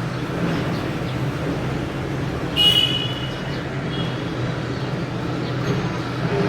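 Steady background road-traffic noise with a low hum, and a short high-pitched horn toot about two and a half seconds in.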